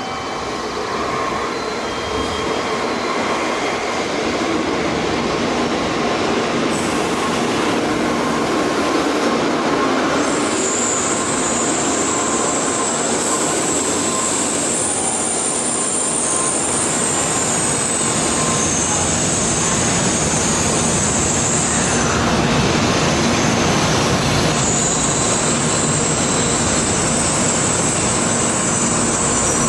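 N700A-series Shinkansen train pulling into the station: loud, continuous running noise that swells over the first couple of seconds and then holds steady, joined about ten seconds in by a steady high-pitched squeal that drops out briefly partway through and returns.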